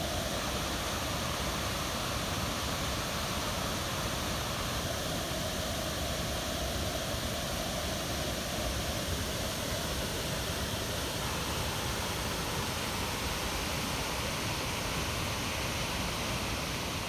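Lee Creek in flash flood, raging over its waterfall: a steady, dense rush of floodwater.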